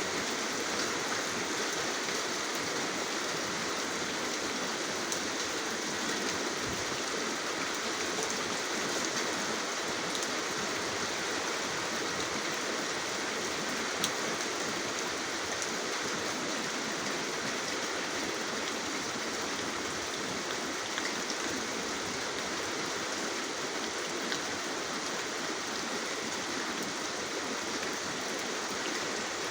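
Steady rain falling: an even hiss, with a few sharper drop ticks scattered through it.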